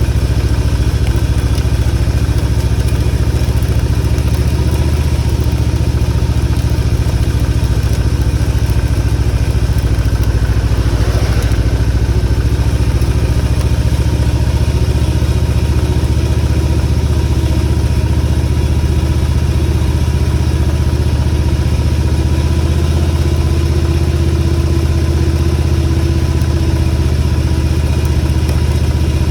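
Motorcycle engine running steadily while riding, a loud, even drone. About eleven seconds in there is a brief brighter rush of noise.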